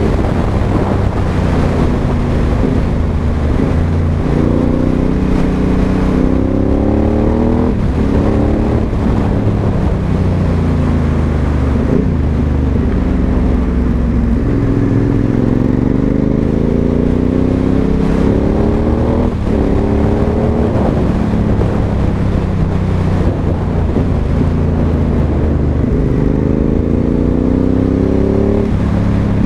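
Aprilia Dorsoduro 1200's 1197 cc V-twin engine with a Pipeworx exhaust under way on the road. The revs repeatedly climb as it accelerates, with short breaks as it changes gear, and fall away in between.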